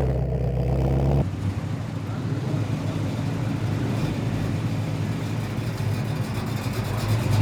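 Car engine running with a steady, deep low rumble that drops away abruptly about a second in, leaving a quieter, rougher engine sound.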